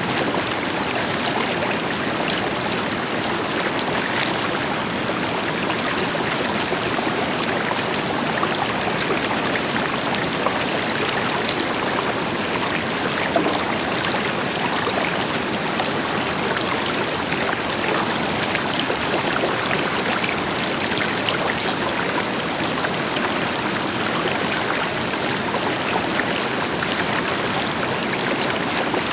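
River water flowing over rocks in a steady, dense rush, with a distant waterfall adding a deeper hiss beneath it.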